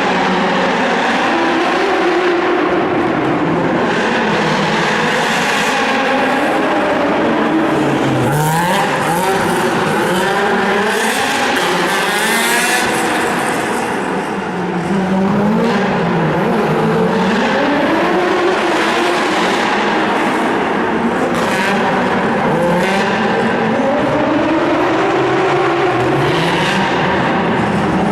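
Drift car's engine revving up and down again and again as it slides, with tyres squealing, inside a sports arena. The engine note climbs and falls every few seconds and briefly drops back about halfway through.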